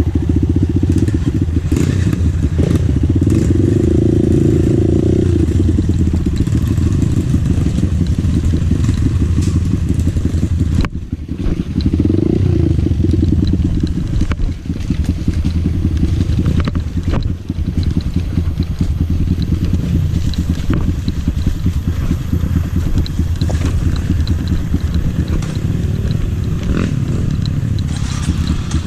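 Dirt bike engine running while riding, with the engine note dropping briefly about eleven seconds in. Scattered clicks and rattles sound throughout.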